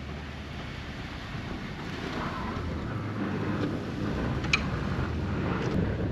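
Vehicle engine running steadily under wind noise, slowly getting louder, with one sharp click about four and a half seconds in.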